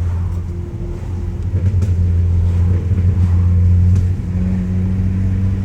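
Straight-piped Audi A3 8P exhaust, with muffler and resonator deleted, running with a loud, steady low drone; the note dips briefly about a second in, then picks back up.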